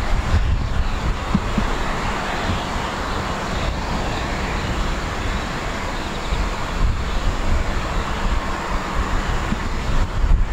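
Steady jet-engine noise from a Boeing 767-300's General Electric CF6 turbofans, mixed with wind on the microphone.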